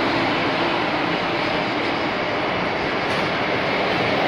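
PKP Intercity passenger coaches rolling steadily past an underground station platform, a continuous rumble of steel wheels on the rails.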